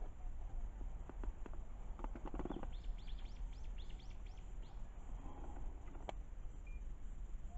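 A small bird calling a quick run of about eight short, falling high notes for a couple of seconds, with scattered clicks before it and one sharp click a few seconds in, over a steady low rumble.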